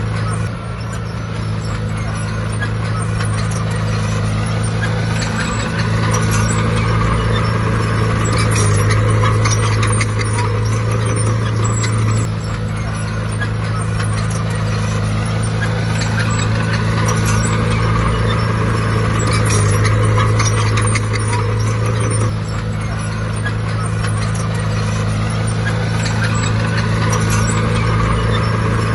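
Heavy diesel earthmoving machinery running steadily, with a constant low engine drone and rattling and clanking over it.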